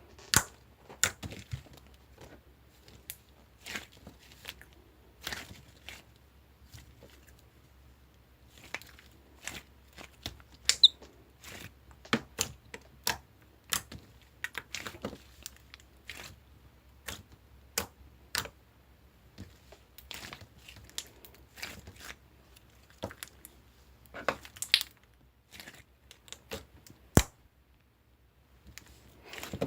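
Clear slime being squished and pressed by hand, giving irregular sharp clicks and wet pops, a few a second.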